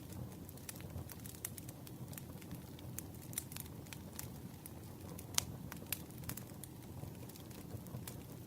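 Campfire burning: a steady low rumble with irregular sharp crackles and pops, the loudest pop about five and a half seconds in.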